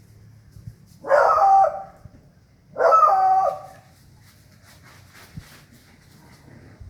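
Two loud animal calls, each just under a second long and stepping down in pitch, about a second and a half apart.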